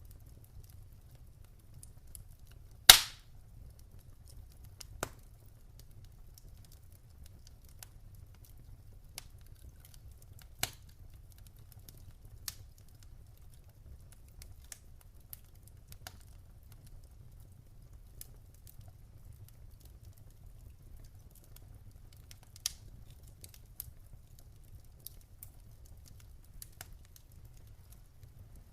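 Wood fire crackling in a fireplace: scattered sharp pops and snaps from the burning logs over a faint low rumble, with one loud pop about three seconds in.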